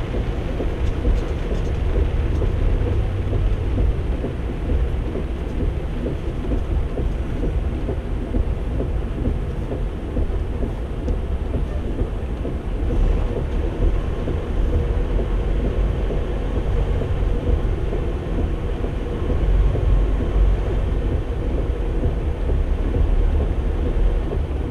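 Inside a moving semi-truck's cab in heavy rain: a steady low engine and road rumble with a wash of rain noise over it.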